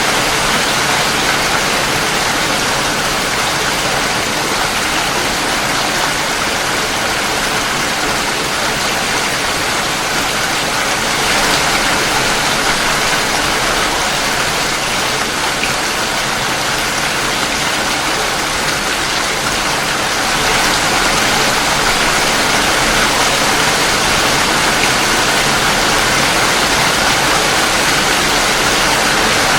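Steady heavy rain falling, a dense even hiss with no separate drops standing out.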